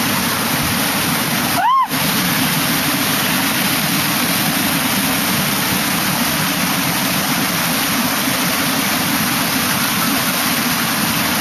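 Valley stream water rushing steadily. About two seconds in, a short high squeal rises and falls.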